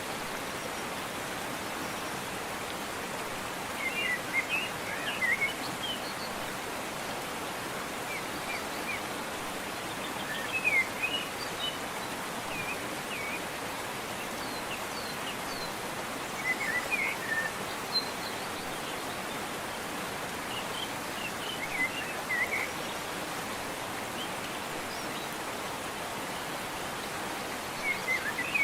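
Waterfall rushing with a steady hiss, with songbirds chirping in short bouts every few seconds over it.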